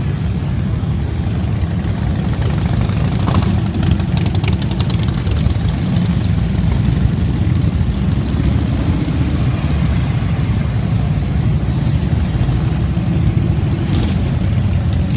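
Several motorcycle engines rumbling at low speed as they ride slowly past, a steady deep drone. A run of sharp clicks comes around four to five seconds in.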